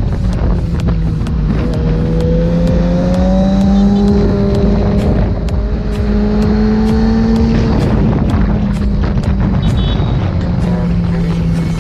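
Motorcycle engine running at road speed, its note rising and falling gently, under a steady rush of wind on the helmet-mounted microphone.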